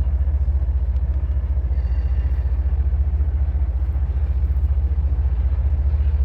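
Diesel locomotive engine running close by: a steady, loud, low pulsing rumble.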